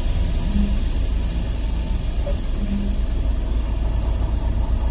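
Semi-truck's diesel engine running, heard from inside the cab: a steady low rumble.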